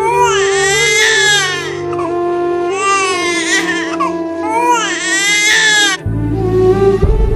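Three long wailing cries, each rising and falling in pitch like an infant crying, over sad background music. The cries stop about six seconds in and the music continues.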